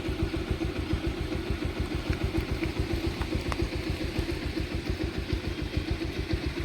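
Motorcycle engine idling, a steady, even beat of low exhaust pulses.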